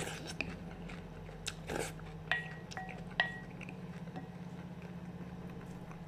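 Close-up chewing and slurping of a juicy tomato-and-onion salad, with a wooden spoon tapping a glass bowl twice, each tap ringing briefly, over a steady low hum.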